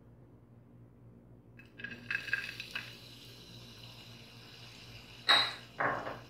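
Chopped coconut pieces drop into hot coconut oil in an aluminium pressure cooker, landing with a few light clatters about two seconds in, then sizzling steadily. Two louder bursts stand out near the end.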